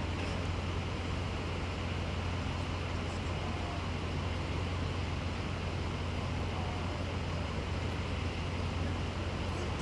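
Steady city street traffic noise over a constant low engine drone.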